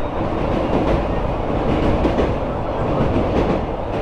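A passenger train running along the track, heard from the side of a moving coach: a steady rumble of wheels on rails with faint clicks over the rail joints.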